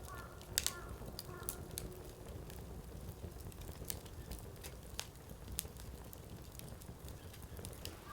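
Firewood burning in a fire pan, crackling with irregular sharp pops over a low steady rumble; one of the louder pops comes about half a second in.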